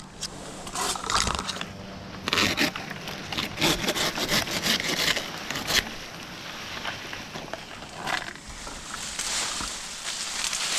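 Dry queen palm fronds being cut and pulled, with irregular rasping saw strokes and scraping and crackling of the dry fronds.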